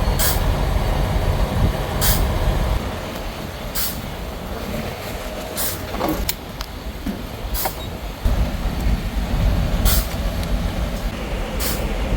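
Semi truck's diesel engine idling as a low rumble that eases off for a few seconds mid-way, with a short hiss repeating about every two seconds.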